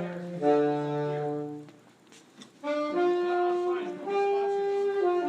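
A saxophone plays a slow phrase of long held notes, pausing briefly about two seconds in before going on.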